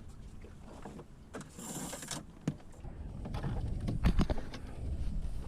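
Sail gear being handled aboard a small timber sailing dinghy: rustling and a short hiss about two seconds in, then several sharp knocks against the boat, over a low rumble.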